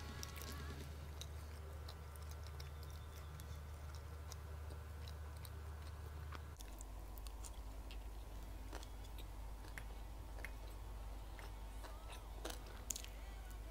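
Close-up mouth sounds of someone chewing a sushi roll (kimbap), faint and wet, with small clicks. Near the end there are a few sharper clicks as wooden chopsticks tap in a small glass dish.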